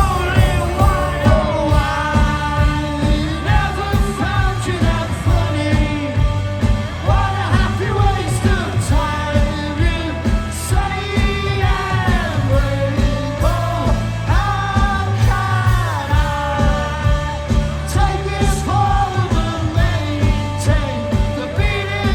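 Live rock band playing with a sung lead vocal over heavy bass and drums keeping a steady beat.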